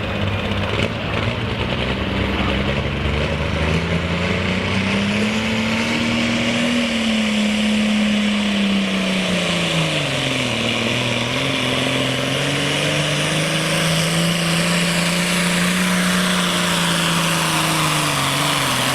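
John Deere hot stock pulling tractor's diesel engine running hard under load while it pulls the sled. Its pitch climbs over the first several seconds, then dips sharply about ten seconds in and again near the end.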